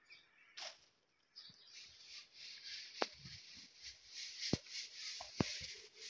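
Faint, continuous high twittering of birds in the background, with a few sharp clicks in the second half.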